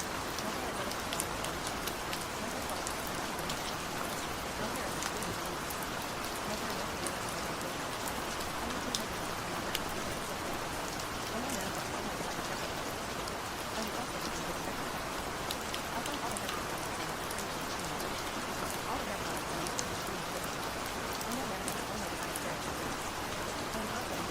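Rain falling steadily, an even hiss with many scattered sharp ticks of individual drops.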